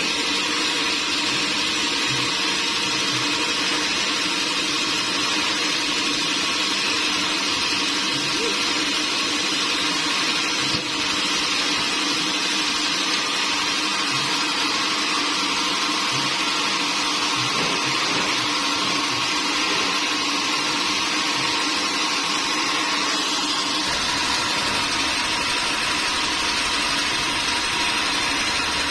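Sawmill machinery running steadily: a continuous, loud mechanical whir with a few held tones, a lower rumble joining near the end.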